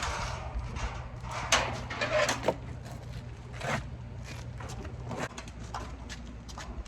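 Scattered clicks and knocks over a steady low hum, with a few louder knocks in the first four seconds.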